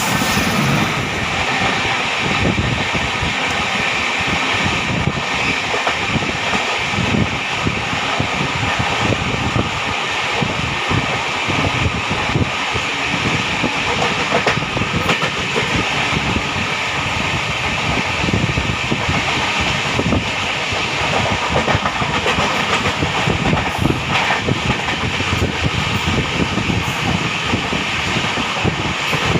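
Running noise of an express passenger train heard from on board at speed: steady wheel and rail rumble with a rapid clatter of wheels over rail joints and points.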